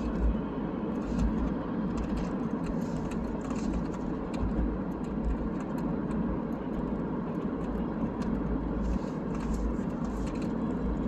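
Steady rumble of road and engine noise from a car driving at about 50 km/h, heard from inside the cabin, with a few faint ticks.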